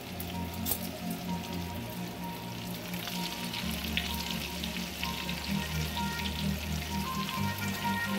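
Breaded steak fritters deep-frying in a pan of hot oil, a steady bubbling crackle, over low background music.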